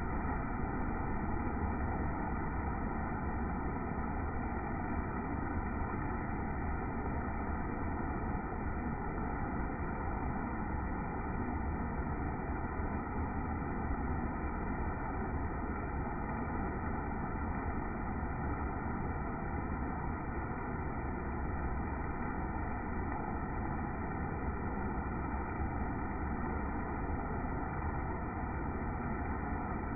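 Steady, unbroken hiss of rain, even throughout with no separate drops or knocks standing out.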